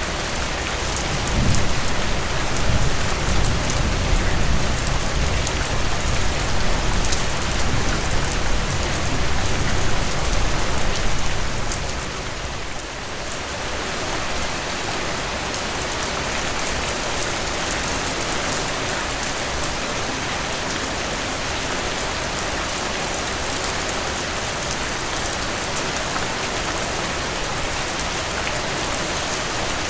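Steady heavy rainfall hissing on surfaces, with a deeper low rumble under it for the first ten seconds or so that drops away about twelve seconds in.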